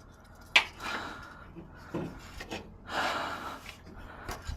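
A sharp click, then a couple of short, breathy exhales like sighs, with light handling noise.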